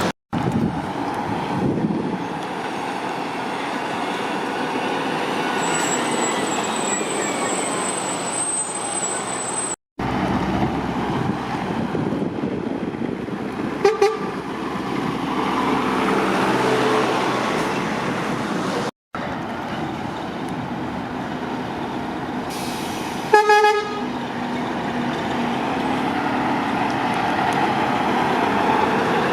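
Heavy lorries running and passing, a steady diesel engine and road noise, with the sound cutting out briefly three times. A truck air horn gives a short double toot about halfway through, then a louder single toot a little later.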